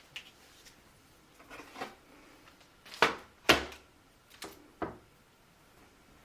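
A series of short knocks and clunks, the two loudest close together about halfway through.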